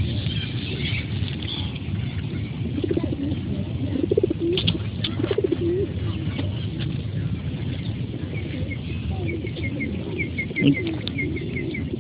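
Birds calling over a steady low rumble: a few low, wavering cooing calls, and from about two-thirds of the way through a quick run of short, high chirps repeated several times a second.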